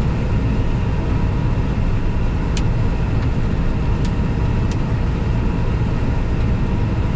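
John Deere 9650 combine running steadily while harvesting soybeans, heard from inside its cab: a constant low engine and threshing drone with a few steady tones. Three faint ticks about halfway through.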